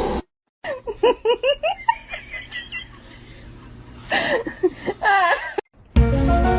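A person laughing in quick, high, rising giggles, in two runs. After a short break, music starts near the end.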